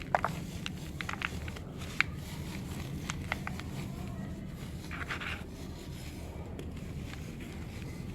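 Clumps of black soil crumbling: scattered small crackles and scrapes, with a denser crumbling patch about five seconds in, over a steady low hum.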